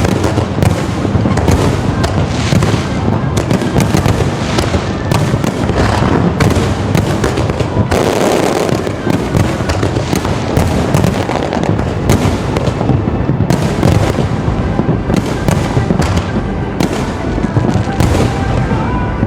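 A fireworks display: a dense, unbroken barrage of shell bursts and crackle, many reports in quick succession, with music playing underneath.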